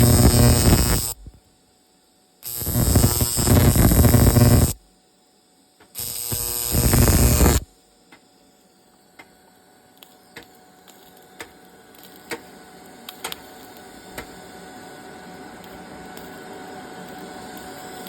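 Electric arc welding on a snowmobile seat bracket: three short welding runs with a buzzing hum, each about two seconds long and cut off sharply, followed by a few faint sharp clicks.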